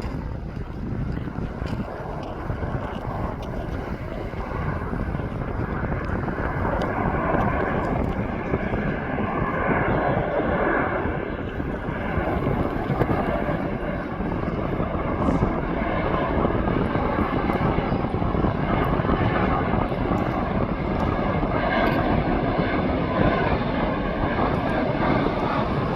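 Airplane engines running, a steady loud rush that grows slowly louder as the aircraft comes closer.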